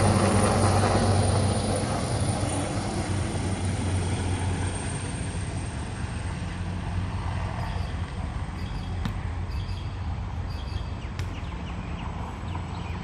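Rescue helicopter's rotor and engine drone fading as it flies away after takeoff: loud at first, dropping off over the first couple of seconds, then slowly getting fainter.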